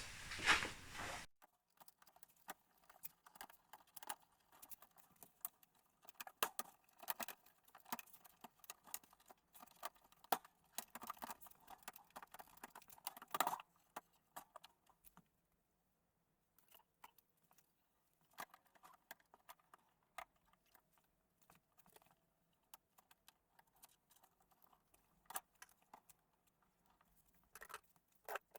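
Faint, scattered clicks, taps and light rattles of small parts being handled. They come thickly for the first half, then thin out to occasional taps.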